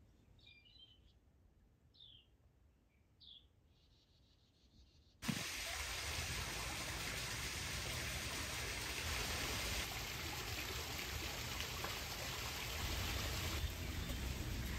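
A few short, high bird chirps over near silence; about five seconds in, a sudden switch to a steady, much louder rushing hiss with no pattern to it.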